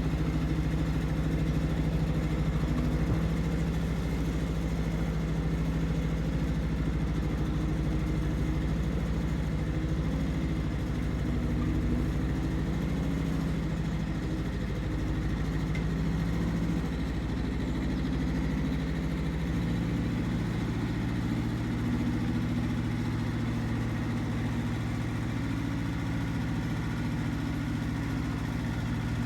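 Iseki TX1300 compact tractor's engine running steadily while ploughing; the engine note changes about two-thirds of the way through.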